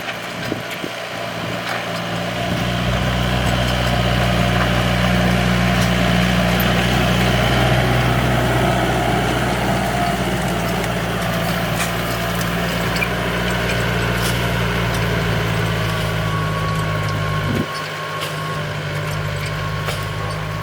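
Yanmar tractor's diesel engine running steadily while plowing, growing louder about two seconds in. Its deepest tone drops out suddenly a few seconds before the end.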